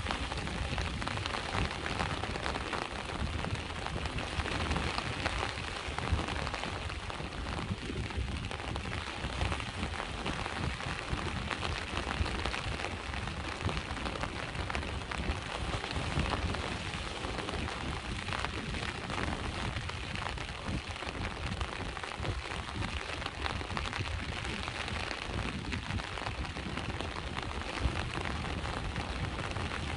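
Steady rain falling on a hard surface, a dense spread of small drop ticks over a low rumble.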